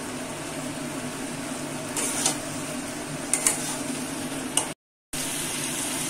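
Spiced onion, tomato and potato masala sizzling in a kadai while a metal spatula stirs it, with a few sharp clicks and scrapes of the spatula against the pan. This is the kosha stage, the masala being fried down. The sound cuts out for a moment about five seconds in.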